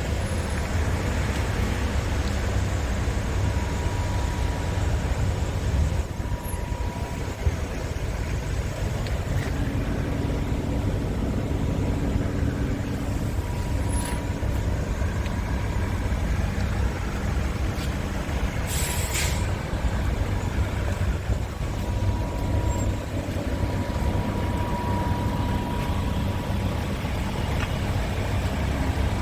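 Scania R410 truck's diesel engine running steadily with a low rumble, with a short hiss about two-thirds of the way through.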